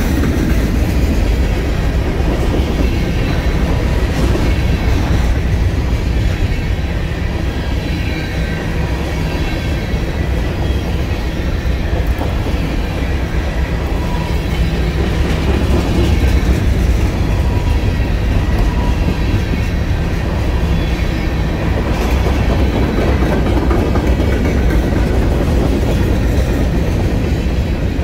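Freight train of boxcars and covered hopper cars rolling steadily past, a continuous rumble of steel wheels on the rails.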